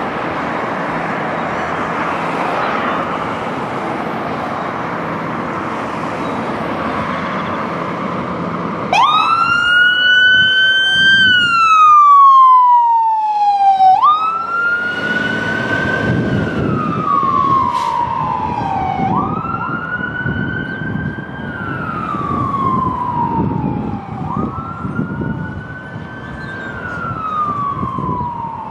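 Fire engine siren wailing: after about nine seconds of steady vehicle noise it starts up, each cycle climbing quickly, holding, then sliding slowly down, repeating about every five seconds.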